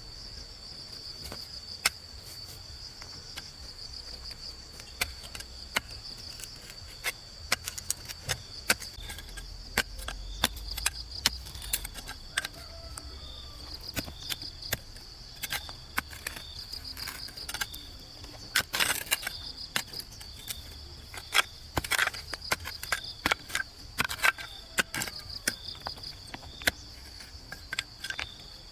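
Insects chirring in a steady high drone, with many sharp knocks and clicks scattered through it. The knocks come more often and louder in the second half, with a dense cluster around two-thirds of the way in.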